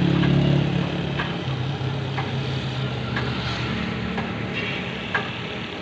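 Tractor engine running steadily, its low hum stepping slightly down in pitch about a second and a half in, with a faint tick about once a second.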